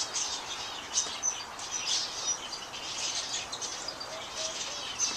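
Many caged birds chirping and twittering together in an aviary, a continuous mix of short high overlapping calls.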